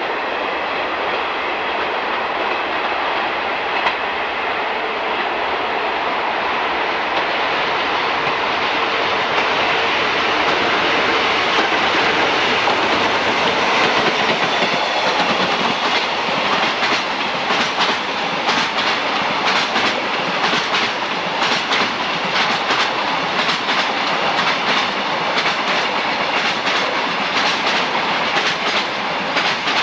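A train running past on jointed track: a rushing rumble that builds, then from about halfway through a steady clickety-clack of wheels striking the rail joints, a few clicks a second.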